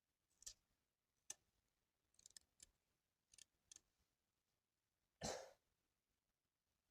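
Near silence, broken by a few faint scattered clicks and taps and one short rustle about five seconds in.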